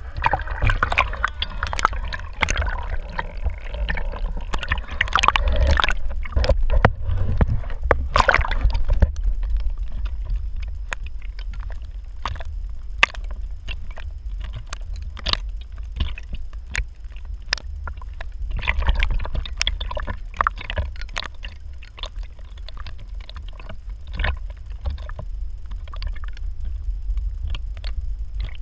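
Water sloshing and splashing against a small boat, with many irregular sharp splashes over a steady low rumble.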